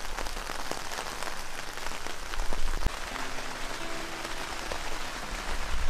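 Steady rain falling on wet grass and into a puddle, with many separate drop ticks. Soft background music comes in about three seconds in.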